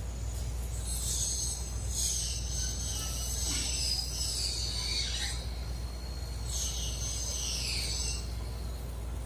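Small bird singing: two long, high-pitched warbling phrases, the first about four seconds long and the second shorter near the end, over a steady low hum.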